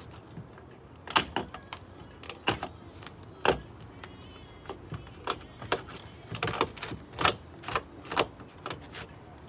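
Dry-rotted wood being pried and broken off a camper wall: a string of irregular sharp cracks and snaps.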